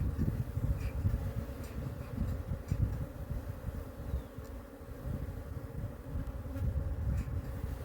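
Swarm of honeybees buzzing around an opened hive, a steady hum, the colony stirred up enough to be stinging. Under it runs a fluctuating low rumble, with a few faint clicks.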